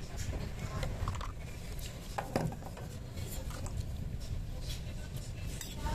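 A person eating a mouthful of rice: chewing and small mouth and spoon clicks, heard as scattered soft ticks over a steady low rumble.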